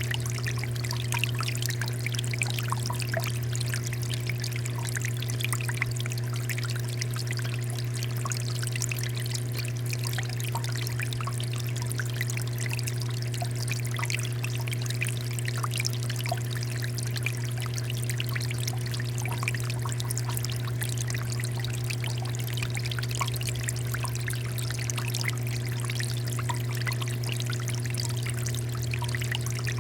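Water fountain running: water pouring and splashing steadily, with a steady low hum underneath.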